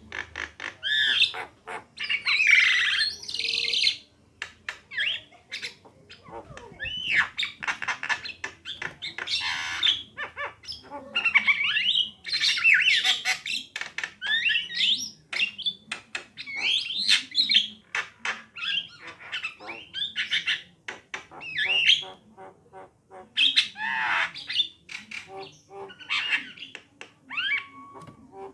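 Javan mynas calling: a continuous run of harsh squawks, chatters and short whistled notes that glide in pitch, broken by brief pauses.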